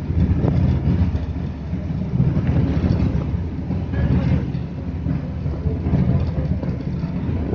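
Passenger ferry's engine running steadily under way: a continuous low drone with a fast, even throb.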